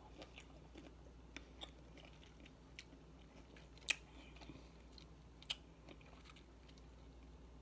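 Faint chewing of fruit, with soft wet mouth clicks and two sharper clicks near the middle.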